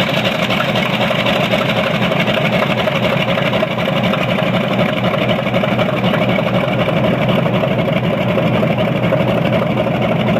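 Grumman Avenger's 14-cylinder Wright R-2600 radial engine running steadily and loud, with an even, rapid pulsing of its firing.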